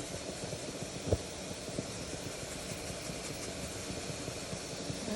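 Steady mechanical hum, like a running fan or appliance, with light irregular ticks and one sharper knock about a second in.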